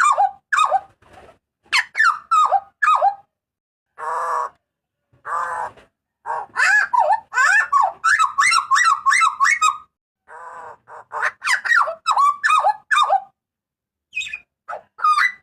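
Butcherbird (jagal papua) calling loudly: quick runs of short, sharp notes that bend in pitch, broken by pauses. Two harsh, rasping squawks come about four and five and a half seconds in.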